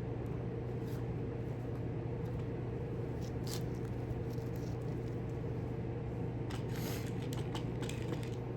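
A steady low electrical hum, with a few faint scratchy clicks and scrapes of tacks being pushed in by hand, clustered about three and a half seconds in and again near the end.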